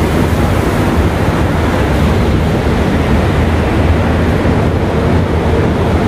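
Passenger coaches of a departing KAI train rolling past the platform, a steady low rumble.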